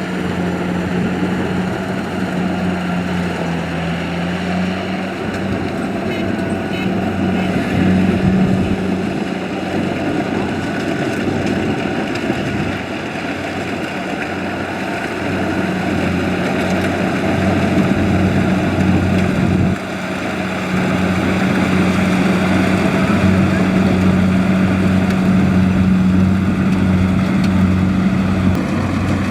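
Kubota DC-70 combine harvester running steadily under load, its diesel engine and threshing machinery making a continuous, even hum. The pitch dips briefly about four seconds in.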